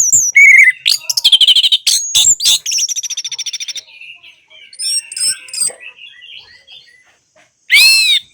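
Orange-headed thrush singing a varied song of quick whistles, fast trills and chattering phrases, dense at first and then sparser, with one loud arching whistle near the end.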